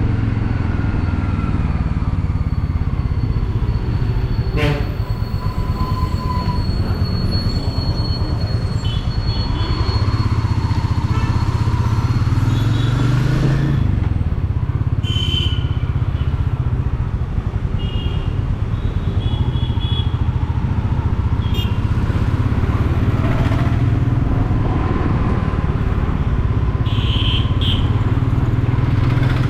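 Royal Enfield Meteor 350's single-cylinder engine and exhaust running steadily while cruising, with brief easings in level about a third of the way in and again past halfway.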